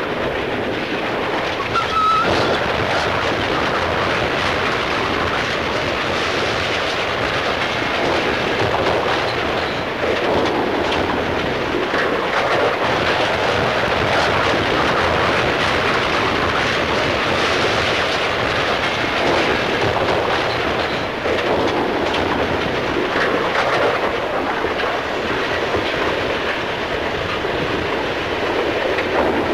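A train running along the track: a steady rumble with the clatter of wheels over rail joints, heard through an old 1940s film soundtrack. There is a brief high tone about two seconds in.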